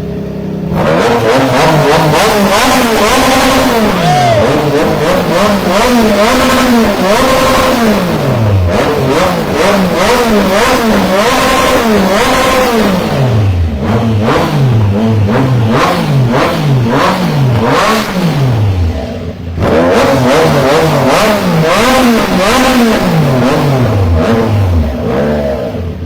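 Triumph Trident 660's inline three-cylinder engine revved hard again and again through a full aftermarket exhaust with a Black Knight muffler: the pitch climbs and falls with each throttle blip. There is a short drop back toward idle about two-thirds through, and it settles to idle near the end.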